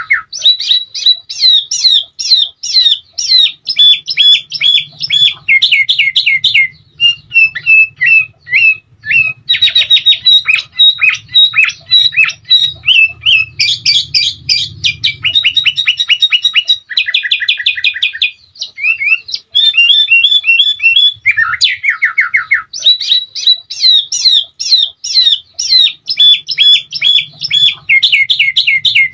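Sooty-headed bulbul (kutilang) in full, continuous song: long runs of fast repeated sharp notes and rapid trills, broken by a few short pauses.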